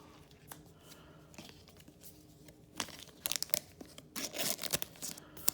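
Trading cards being slid into thin plastic penny sleeves. The sleeves rustle and crinkle in a run of short scratchy bursts starting about halfway through.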